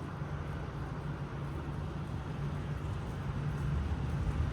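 Diesel semi-truck engine idling, a steady low drone.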